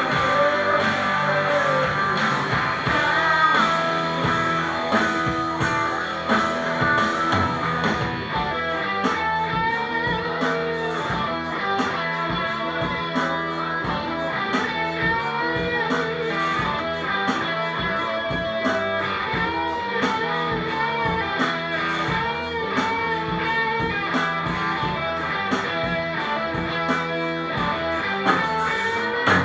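Rock band playing, with electric guitar lines out front over a steady drum beat.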